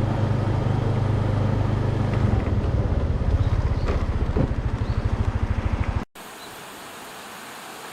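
An engine running with a steady low hum, turning into a rapid even throb about two seconds in. It cuts off abruptly about six seconds in, leaving a quiet steady hiss.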